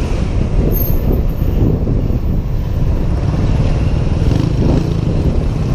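Wind buffeting a helmet-mounted microphone on a moving Honda PCX 125 scooter, with the scooter's single-cylinder engine droning underneath and steadying from about halfway in.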